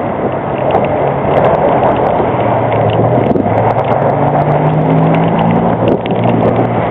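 Street traffic on a snowy road: a steady hiss of tyres on snow, and from about three seconds in the steady hum of a nearby vehicle's engine, rising slightly and then holding.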